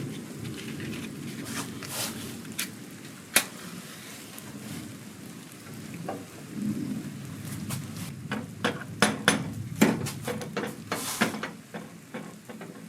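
Rain falling during a thunderstorm, with a continuous low rumble of thunder. Scattered sharp clicks and knocks come through it, more of them between about eight and eleven seconds in.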